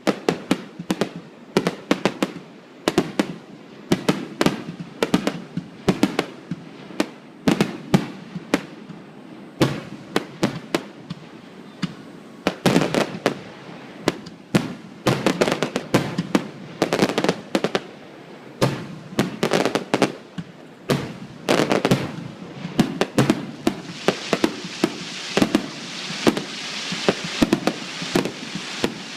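Aerial fireworks bursting in quick, irregular succession, often several bangs a second, each with a short echoing tail. Near the end a dense crackling shower runs under the bangs.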